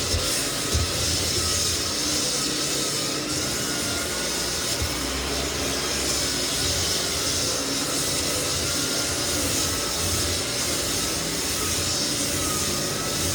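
Lagler Flip belt floor sander running steadily under load, with the hiss of its dust extraction, sanding cupped white oak flooring level.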